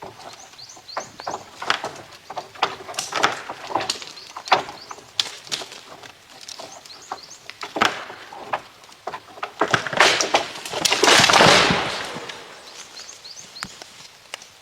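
Irregular crunching, rustling and knocking, as of someone handling wood and moving over dry leaves on a forest floor, with a longer, louder rustle about ten seconds in. Faint repeated bird chirps run underneath at the start and near the end.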